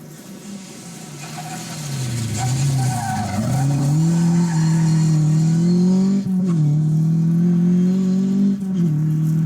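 Rally car engine accelerating hard toward the microphone, getting louder over the first few seconds. The note climbs in pitch and drops sharply at two upshifts, one a little past halfway and one near the end.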